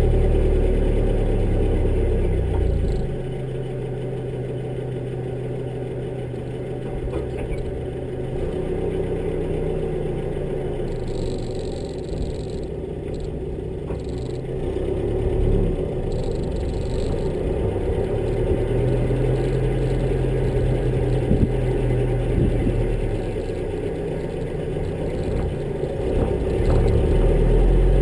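1957 Citroën DS19's four-cylinder engine running while the car is driven slowly, heard from the bonnet. It is louder at first, eases off about three seconds in, and picks up again near the end.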